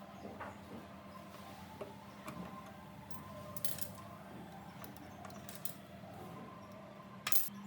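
Small metal parts and tools clinking and tapping as they are handled, with a steady low hum underneath; the loudest clink comes near the end.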